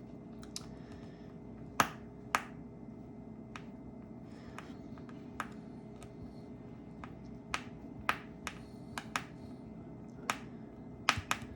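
Small precision screwdriver clicking and tapping against a tiny phone screw as it slips without turning it: the tip is worn. About fifteen sharp, irregular clicks, the loudest about two seconds in and near the end, over a faint steady hum.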